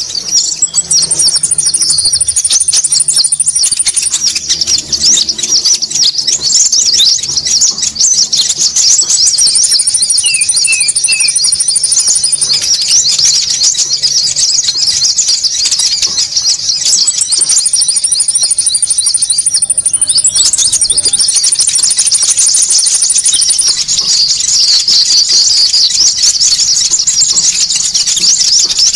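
Konin bird lure call: a dense, unbroken high-pitched chattering of small birds, used to draw birds in for trapping. A long, thin, even trill sits above the chatter four times, and three short chirps sound about ten seconds in.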